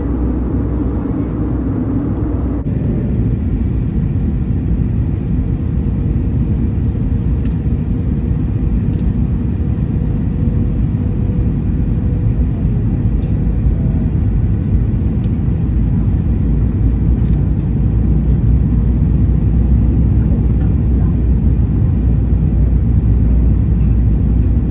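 Steady rumble of jet engines and airflow inside an Airbus A321 passenger cabin, heard from a window seat. A brighter hiss cuts off about two and a half seconds in, and the rumble grows slightly louder toward the end.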